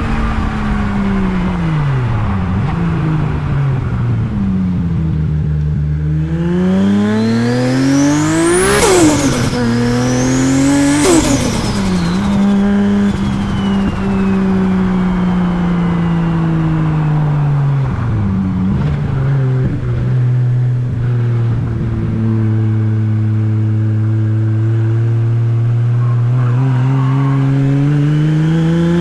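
Big-turbo Toyota Supra 2JZ straight-six engine revving and accelerating: the engine note falls and rises, climbs steeply to two sharp high peaks about nine and eleven seconds in, then settles into a long steady note that starts climbing again near the end.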